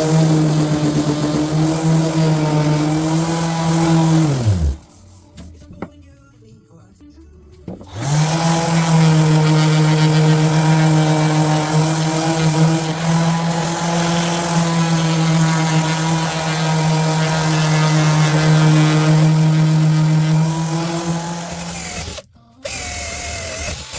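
An electric power tool's motor runs with a steady whine. About four and a half seconds in it winds down and stops. About three seconds later it spins back up and runs steadily again, then falls away near the end.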